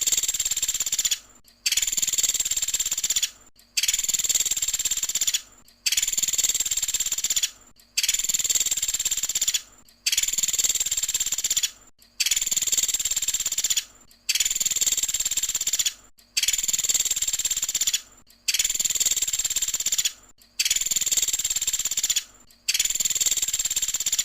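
Pelatuk sampit (velvet-fronted nuthatch) song in its rapid 'tembakan' bursts: a high trilled phrase, each just under two seconds long, repeated about every two seconds with short gaps between.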